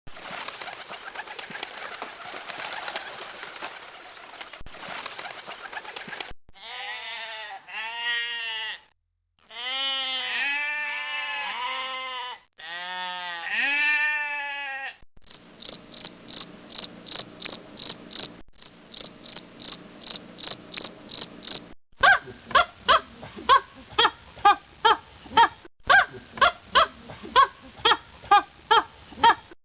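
A string of different animal sounds: about six seconds of even hissing, then a series of arching calls that rise and fall in pitch, then evenly repeated high chirps and, near the end, faster clicking chirps.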